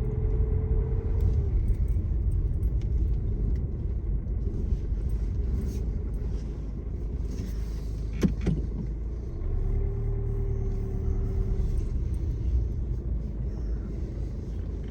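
A vehicle's engine running at low speed while it reverses and turns round, a steady low rumble. A steady whine comes in twice for a couple of seconds, and there is one sharp knock about eight seconds in.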